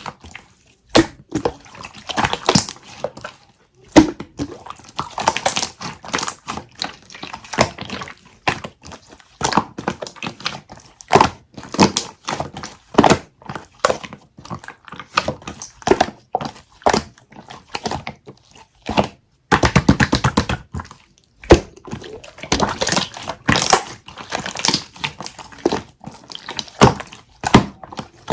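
A dense, irregular run of taps, knocks and clicks, with a few short pauses.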